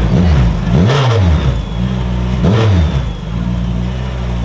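Engine revving: its pitch dips and climbs twice over a steady running sound.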